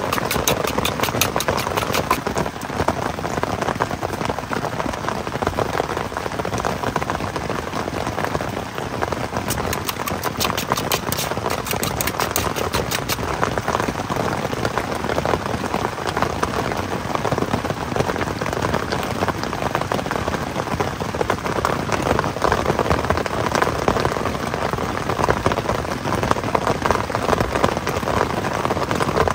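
Heavy rain falling steadily on the tent. Twice, a fork clicks rapidly against a metal bowl as eggs are whisked: for the first two or three seconds and again about nine to thirteen seconds in.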